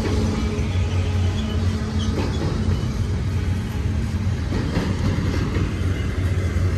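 Double-stack intermodal container train rolling past: a steady noise of steel wheels running on the rails, with the rattle of the container well cars.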